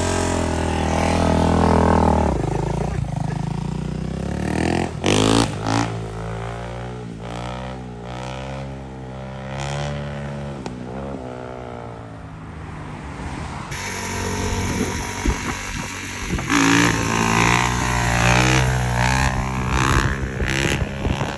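Motorcycle engines running, with the revs repeatedly rising and falling as the bikes accelerate and ease off.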